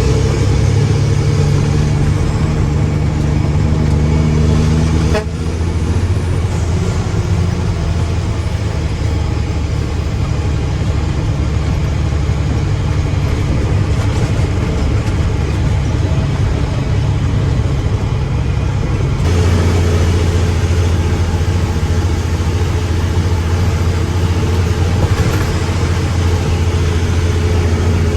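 Mack truck's diesel engine running steadily, its note changing about five seconds in and again a little before twenty seconds.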